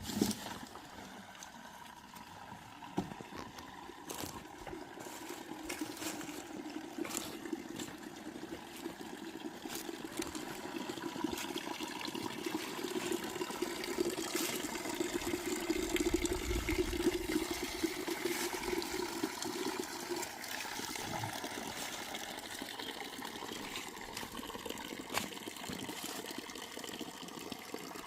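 Water pouring or running in a steady stream that stops about twenty seconds in, with a few faint knocks.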